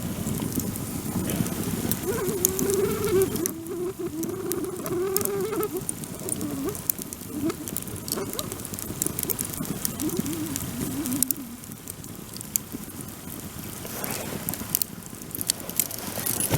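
Wood bonfire crackling, with many small sharp snaps and pops throughout. A low wavering tone comes and goes over the first ten seconds or so.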